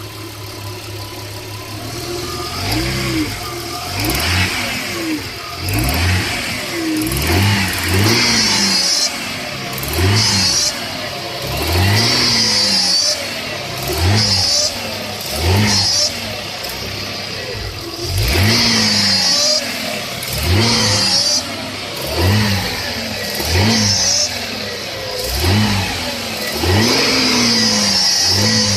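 1996 Audi A6 engine idling, then blipped again and again, each rev rising and falling, about one every one to two seconds. A high-pitched noise comes in with the revs. This is the recent, unexplained noise that the owner says appears only when accelerating or revving.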